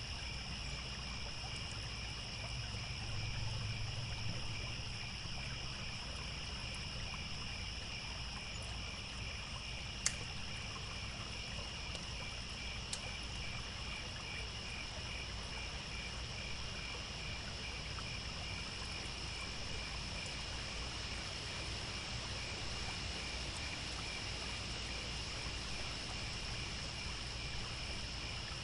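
A chorus of crickets chirping steadily in a continuous high-pitched trill, over a low rumble of running water. A single sharp pop about ten seconds in, like a crackle from a campfire.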